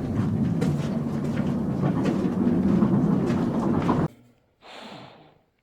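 Mine cart rolling along rough rail track, its wheels rumbling and clacking over the joints; the rumble cuts off suddenly about four seconds in. A short soft breathy sound follows near the end.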